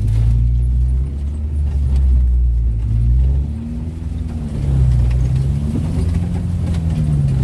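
A vehicle engine running at low revs, a deep steady rumble whose pitch sags and rises again around the middle.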